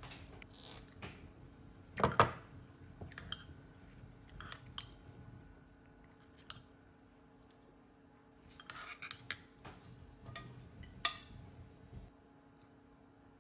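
Kitchen utensils and dishes clinking and knocking in irregular clatters during food preparation, loudest about two seconds in and again near the end.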